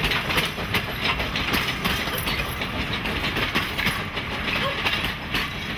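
Passenger carriages behind a small steam tank engine rolling past, their wheels clicking irregularly over the rail joints over a steady rumble.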